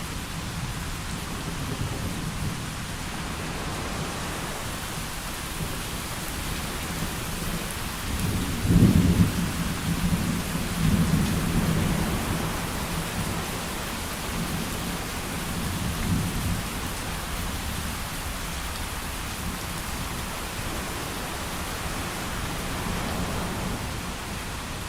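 Steady heavy rain with rolling thunder: a loud low rumble of thunder builds about eight seconds in and rolls on for several seconds, with a fainter roll later.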